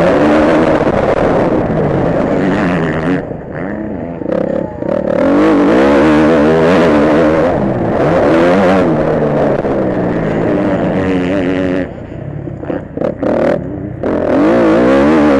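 Motocross bike engine heard from an onboard camera, revving up and down through the gears. The revs drop off the throttle twice, a few seconds in and again about twelve seconds in, before it pulls hard again.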